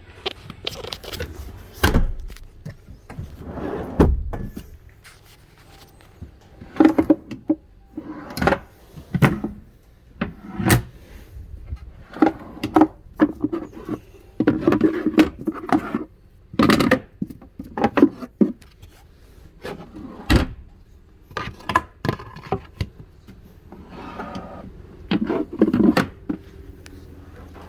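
Irregular knocks, clunks and rattles of panels or fittings being handled inside a van, some sharp and some heavier.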